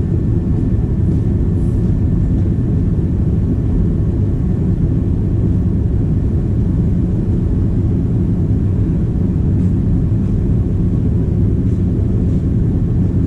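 Caterpillar D4 crawler's diesel engine running steadily with a low, even rumble.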